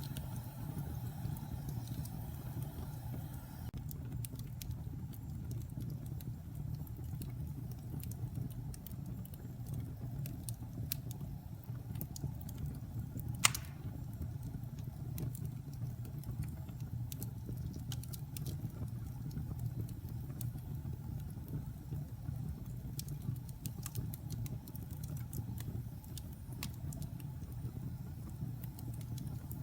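Wood fire burning in a fireplace: a steady low rumble with scattered crackles, and one sharp, loud pop about halfway through.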